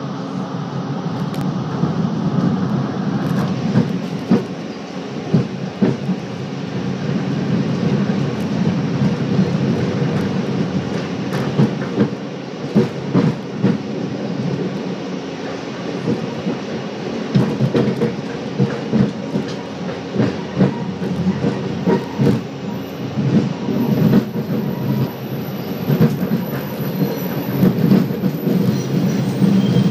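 Scarborough RT train (UTDC ICTS Mark I cars) running along its track, heard from inside the front of the car: a steady low hum with irregular clacks of the wheels over rail joints. A faint high whine comes in near the end.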